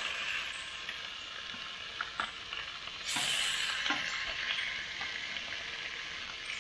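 Freshly caught fish fillets frying and sizzling on a portable flat-top griddle, the sizzle growing louder about three seconds in. A few light metal clicks come from the tongs on the griddle.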